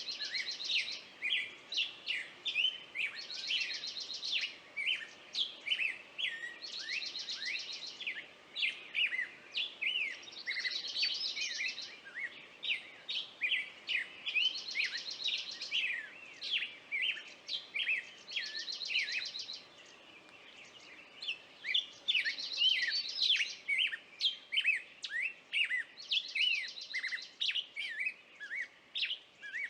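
Several songbirds chirping busily in quick, sweeping notes. About every three and a half seconds, one bird gives a short, buzzy, higher trill.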